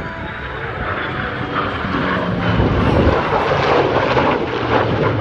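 Lockheed Martin F-22 Raptor jet fighter flying past, its twin turbofan engines a loud rush of noise that grows louder about two to three seconds in.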